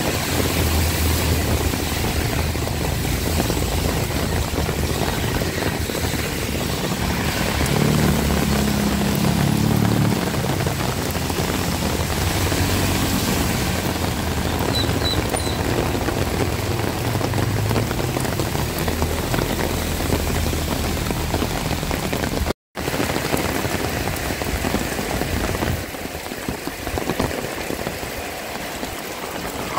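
Heavy rain falling steadily, with the low hum of a motor vehicle's engine running under it through the first half. The sound drops out for a moment about 23 seconds in, and the rain is a little softer near the end.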